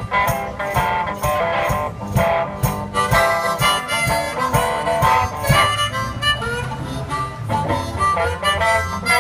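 One-man band playing an instrumental passage: a harmonica carries the melody over acoustic guitar. A steady low beat runs through the first half, and a held bass note takes over near the end.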